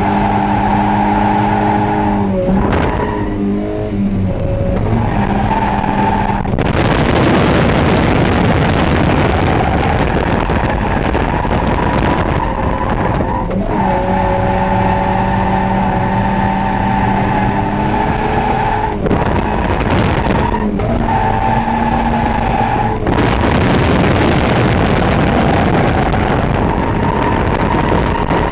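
The 1.6-litre four-cylinder engine of a modified Mazda Eunos Roadster, heard from inside the cabin, held at high, steady revs through drifts. Its note breaks and dips briefly a few times, and during two long stretches it is drowned by rushing tyre skid noise.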